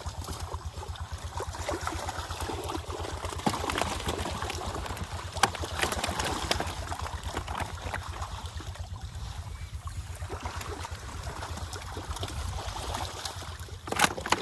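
Water trickling and splashing, with scattered sharp splashes and a steady rapid low throb underneath. A few louder splashes come near the end.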